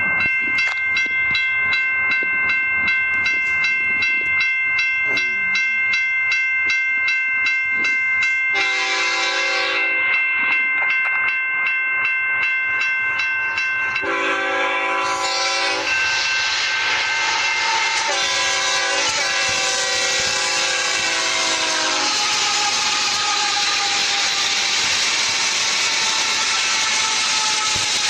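Railway crossing warning bell ringing steadily, then a freight locomotive's horn sounds four blasts: long, long, short, long. After that comes the steady rush and rumble of the long freight train's wheels passing on the rails.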